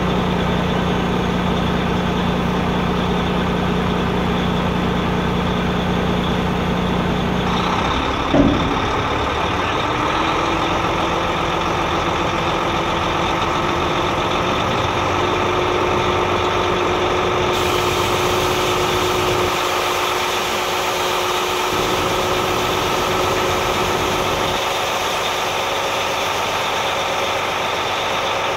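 Truck engine idling steadily. About eight seconds in there is a short clunk, and the running sound shifts to a slightly higher, steady pitch with an added whine.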